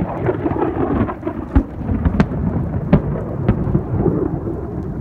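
Thunderstorm: a continuous deep rumble of thunder mixed with rain, with several sharp taps a little over half a second apart in the middle.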